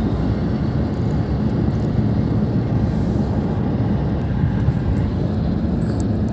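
Steady road and engine rumble heard inside the cabin of a moving car, an even low noise with no distinct events.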